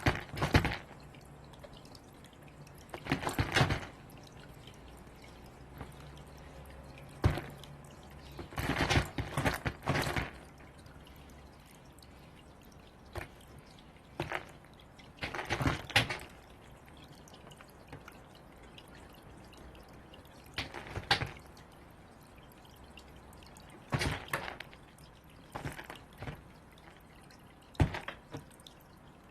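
A bird's beak pecking and knocking at food balls, in irregular bursts of rapid taps every few seconds.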